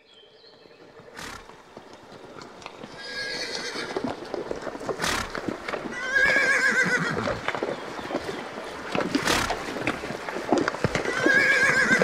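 A horse whinnying three times, a high wavering call every few seconds, over the clatter of hooves on stony ground. The sound fades in over the first few seconds.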